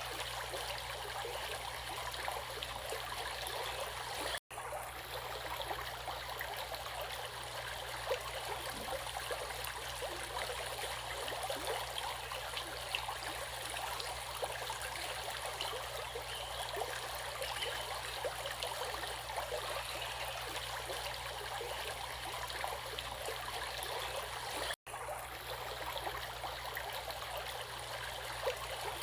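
Steady running water of a stream, bubbling and trickling over stones, cut by two momentary dropouts, one about four seconds in and one near the end.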